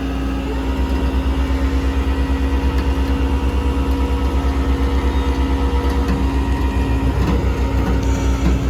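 Motor vehicle engine running, with a strong low throb that pulses several times a second from about half a second in, under a steady whine.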